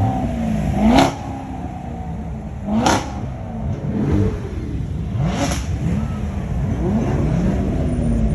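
Car engine being revved repeatedly, its pitch climbing and dropping several times, with three of the revs ending in a short sharp burst.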